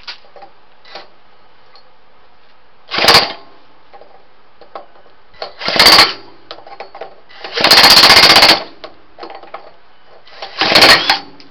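An improvised starter cranking a home-built small engine with a JB-Weld cylinder in four short, loud rattling bursts, the third the longest, at about one a second apart to three seconds apart. The engine does not catch and run.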